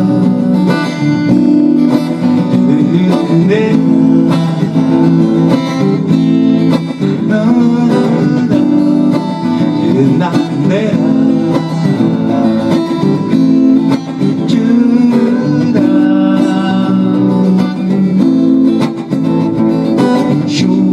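Instrumental break of a song: plucked acoustic strings play the melody over a steady accompaniment, with no singing.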